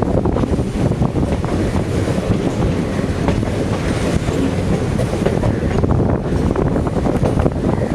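Passenger train running along the track: a steady heavy rumble with a continuous irregular clatter of wheels on the rails.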